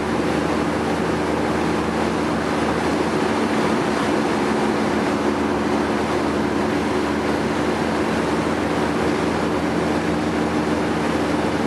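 1962 Studebaker Hawk GT's freshly rebuilt V8 cruising steadily at about 1600 RPM at highway speed, an even drone heard inside the cabin along with road and wind noise.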